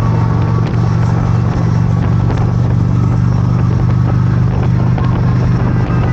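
Motorcycle engine running at a steady, unchanging speed.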